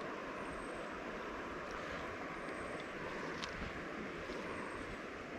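Steady rush of flowing river water. A short, thin, high whistle falling in pitch comes three times, about two seconds apart.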